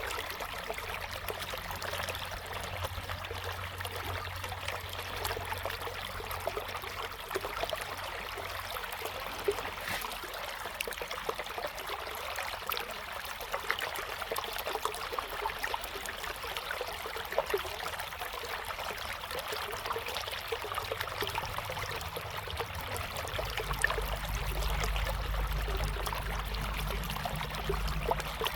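River water flowing steadily, an even rushing and trickling. A low rumble runs underneath and grows stronger in the last few seconds.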